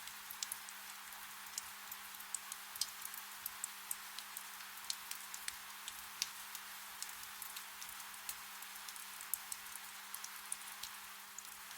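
Soft, steady rain, a fine hiss with many separate drops ticking sharply and irregularly, and a faint steady low hum underneath.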